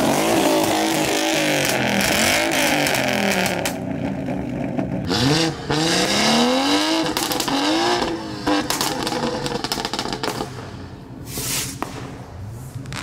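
A modified car's engine revved hard several times, its pitch rising and falling over the first seven seconds or so. It is followed by a run of sharp cracks.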